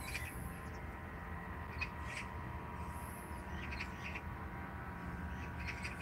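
Birds chirping outdoors in short, scattered calls, over a low steady background rumble.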